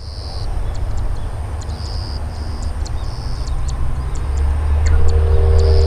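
Boeing 737-800 jet engines running as a low rumble, which grows louder and steadier about four seconds in as a steady hum joins it. Short high chirps come and go above it.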